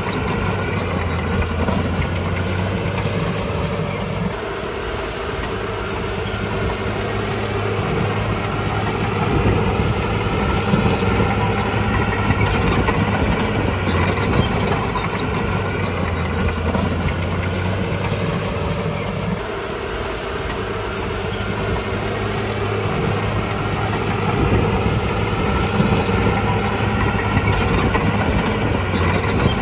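Diesel engine of a Komatsu D51PX crawler bulldozer running steadily at work, its note shifting twice as the load changes, with scattered light metallic clanks.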